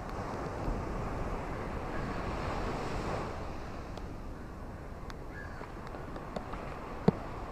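Ocean waves washing onto a shore: a steady rush that swells over the first few seconds and then eases off. A sharp click sounds near the end.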